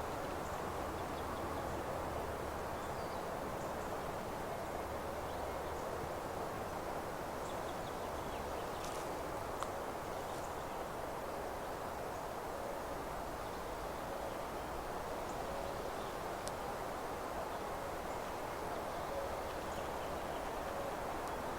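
Meadow ambience: a steady rush of wind through foliage, with faint, scattered high chirps of distant songbirds and an occasional small tick.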